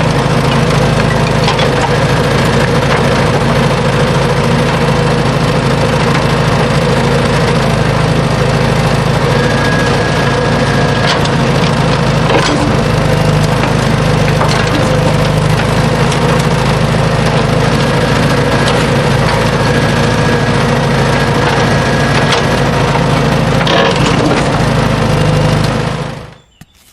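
A small motor running steadily, with scattered clicks and cracks over it; the sound cuts out suddenly for about a second near the end.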